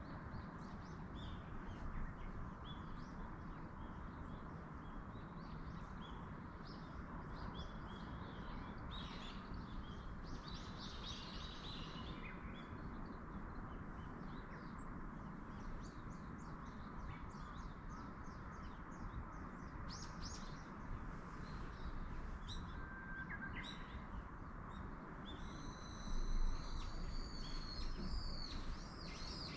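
Wild birds chirping and calling in short, scattered notes over a steady background hiss of wind through the trees. A louder call with several falling notes stands out near the end.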